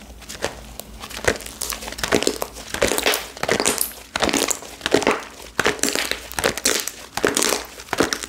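Slime being squished and worked by hand, giving a dense run of crackling clicks and pops.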